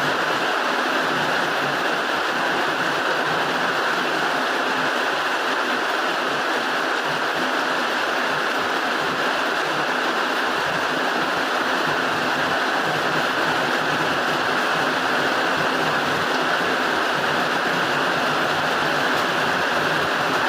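Rain pouring down onto a roof: a dense, steady hiss of water that stays even throughout.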